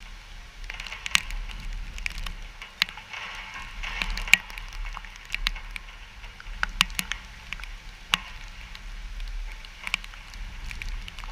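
Rain falling from a hurricane's outer rain band, a steady hiss with irregular sharp ticks of drops striking, and wind rumbling on the microphone.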